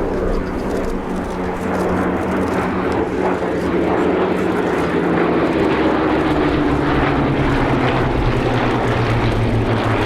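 Pair of Hawker Hurricane Mk I fighters flying past in formation, their Rolls-Royce Merlin V12 piston engines running steadily. The engine note drops in pitch about halfway through as the aircraft pass.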